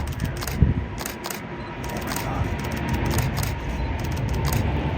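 Low, steady rumble of a Boeing 777's GE90 jet engines at takeoff power, slowly growing louder during the takeoff roll, with rapid bursts of camera shutter clicks over it.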